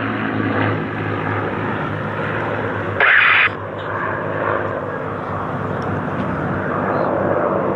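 Piston-engined propeller aircraft running steadily, with a brief burst of radio about three seconds in.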